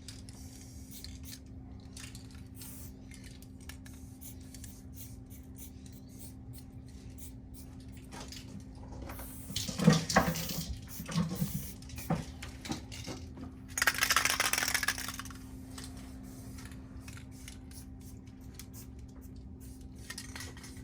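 Aerosol spray-paint can hissing in one burst of about a second and a half, a little past the middle, among light metallic clicks and clinks and a few louder knocks just before it, over a steady low hum.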